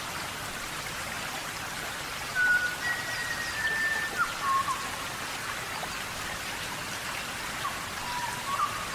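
Steady tropical rainforest rain falling on foliage, an even hiss. A few clear, level whistled notes at several pitches sound over it in the middle and again near the end.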